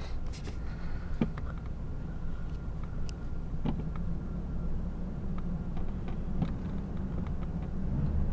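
Ford 5.4-litre Triton V8 idling steadily, with scattered light clicks on top.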